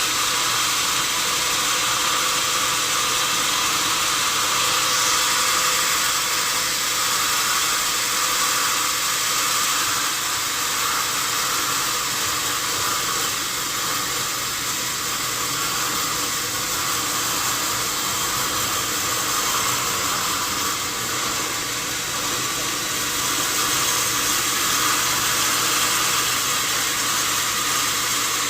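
Sawmill machinery running steadily while sawing wood, a continuous even noise with no breaks.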